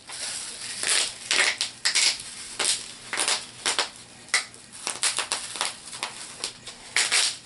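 Plastic packaging crinkling and crackling in irregular bursts as it is handled and crumpled, from opened HeroClix booster packs and their bubble-wrapped figures.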